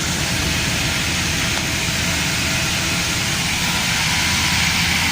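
Chevrolet Camaro engine idling steadily, running after a throttle relearn and reset that was meant to cure its hard starting.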